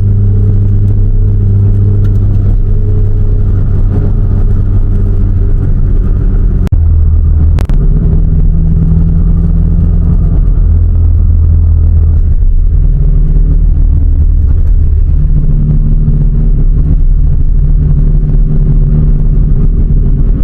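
Car engine and exhaust droning steadily at cruising speed. The low hum holds one pitch for several seconds, then shifts to a new level a few times, with an abrupt change about seven seconds in.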